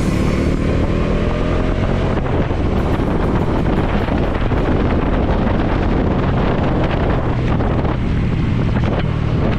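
Bajaj Dominar 400's single-cylinder engine running under way, its pitch rising as it accelerates over the first couple of seconds, with wind buffeting the microphone.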